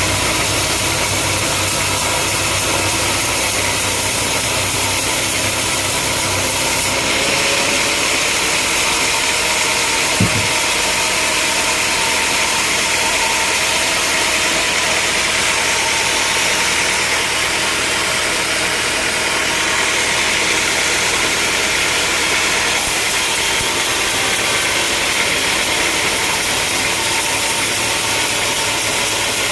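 Sawmill machinery running steadily, with an engine-like hum under a constant noise. The deep rumble drops away about seven seconds in, and there is a single sharp knock about ten seconds in.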